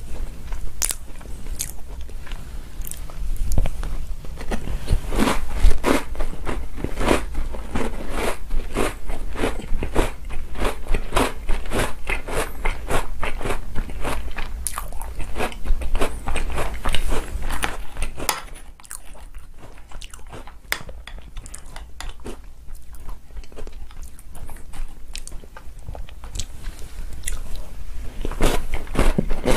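Close-up chewing and crunching of chocolate cookies spooned out of chocolate milk, with many short crunches through the first half. The chewing goes quieter for about ten seconds after the middle, then a fresh mouthful near the end.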